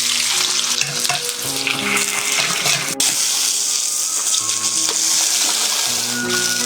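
A steady, loud hissing noise, with background music playing underneath; a single click cuts through it about three seconds in.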